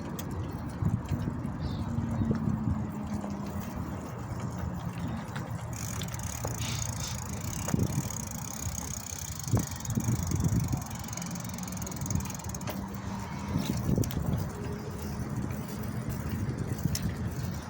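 Riding noise from a bicycle: a steady low rumble of tyres and wind on the microphone, with scattered knocks and rattles.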